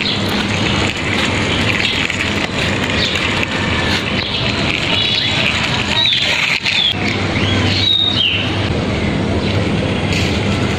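Steady, loud outdoor background noise with a low hum, and bird chirps a little past the middle.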